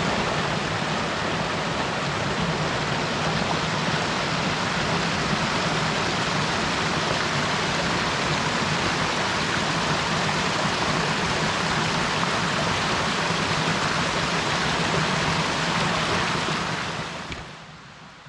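Steady, even rushing of water, fading out near the end.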